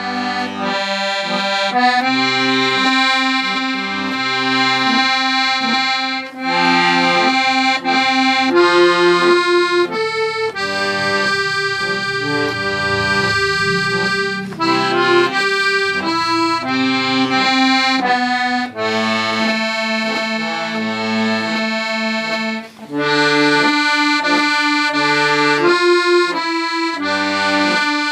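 Accordion playing a tune: sustained reedy melody notes over short, regularly repeated low bass notes, with a couple of brief breaks in the playing.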